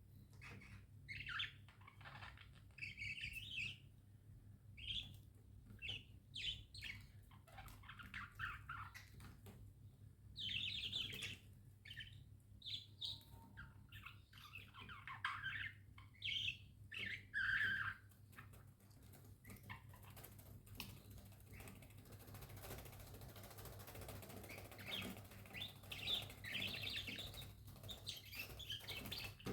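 Budgerigars chirping in short, irregular calls, turning to a softer, continuous chatter in the last third.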